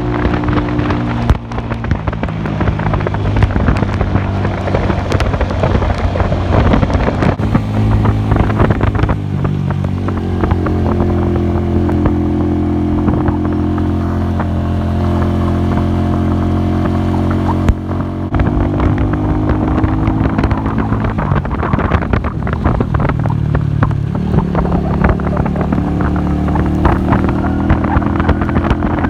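Classic Earl 150 cafe racer motorcycle engine running on the move, its pitch stepping up and down several times, with wind noise on the microphone.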